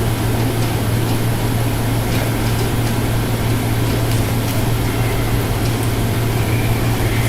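Small DC motor running steadily with a constant low hum, driving the homemade cardboard mini washing machine.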